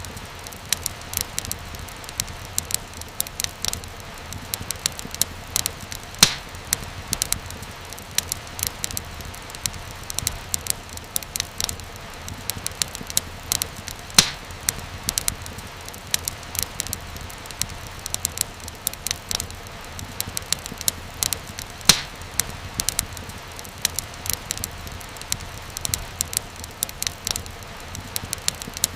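Wood fire burning in a fireplace: a steady low rumble and hiss with constant small crackles and a louder pop every few seconds.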